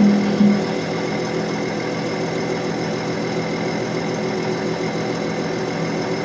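Caterpillar 312D excavator's diesel engine running steadily, with a brief rise in level about half a second in.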